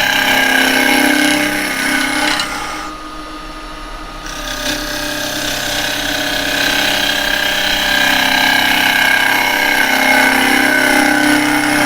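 A round carbide cutter shearing wet cherry wood on a running Axminster 1628 wood lathe, a continuous hissing cut over the lathe's steady hum. About three seconds in the cut stops for a second and a half, leaving only the lathe's hum, then it resumes.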